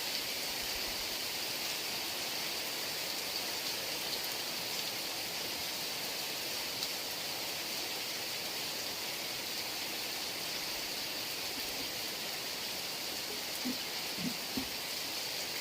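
Heavy rain falling steadily, with a few separate drops plopping near the end.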